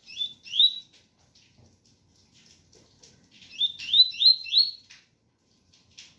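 Double-collared seedeater (coleiro) singing its 'tui-tui' song: two short rising whistled notes, then after a pause a run of four rising notes. Faint rain patters underneath.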